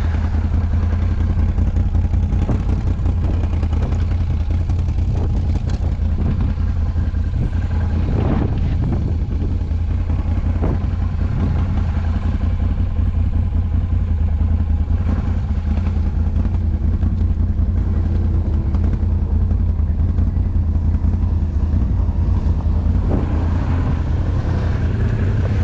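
Off-road vehicle engine running at a fairly steady pace while riding, with a low, even drone and a few brief clatters.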